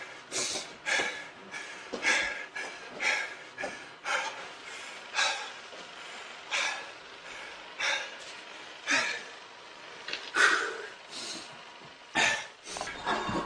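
A person's breathy vocal sounds: short puffs of breath, roughly one a second.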